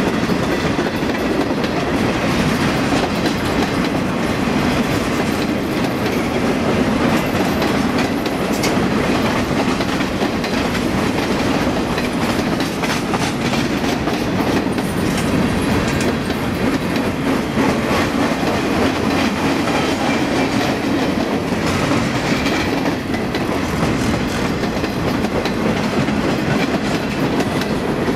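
Freight train cars (tank cars, boxcars, centerbeam flatcars and gondolas) rolling past close by: a steady, loud rumble of steel wheels on the rails, with many sharp clicks and clanks as the wheels pass over the track.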